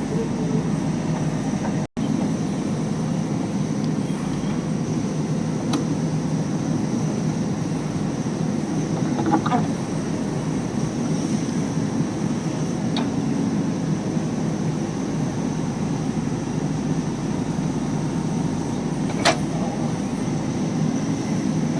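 JCB backhoe loader's diesel engine running steadily under work, with a few sharp knocks along the way.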